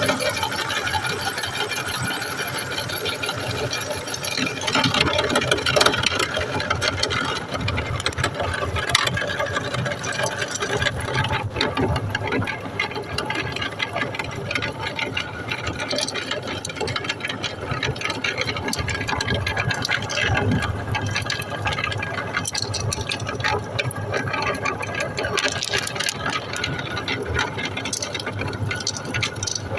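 Meat grinder running steadily, with irregular rattling and cracking as candy is ground through it.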